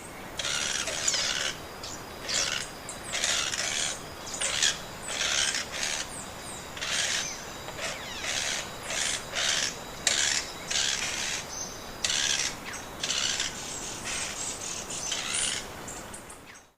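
Bird calling with repeated harsh, rasping chatters, roughly one or two short bursts a second.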